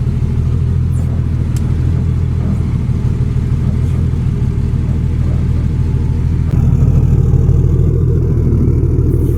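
Turbo Cummins diesel engine of a Dodge Ram 3500 running at low revs as the truck creeps back under a truck camper. It gets a little louder about two-thirds of the way in.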